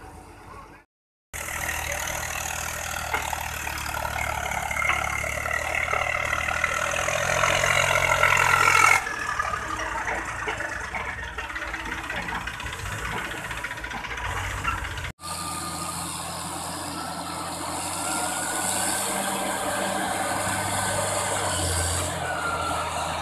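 Construction machines' diesel engines working, in several clips joined by sudden cuts. In the first, an engine revs up with a rising whine and grows louder. The last holds a steady engine run with a wavering high whine and hiss.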